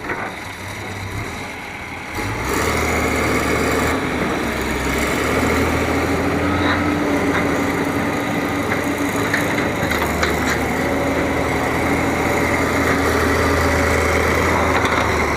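Diesel engine of a heavily loaded Cuu Long 3-tonne dump truck running under hard load as it climbs a slope, growing louder about two seconds in and then holding steady.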